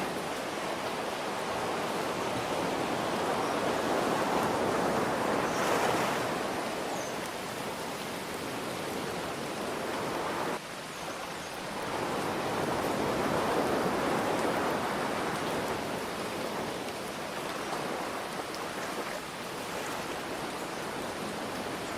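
Ocean waves breaking and washing in over a steady hiss of rain, the surf swelling and easing back twice, with a sudden brief drop in level about halfway.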